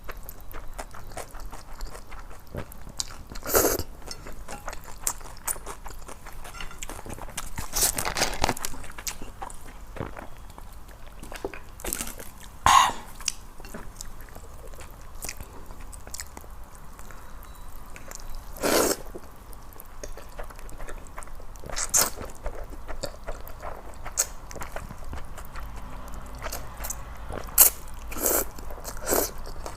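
Close-miked chewing and mouth noises of a person eating, with many small irregular clicks and about six louder short swishes spread through.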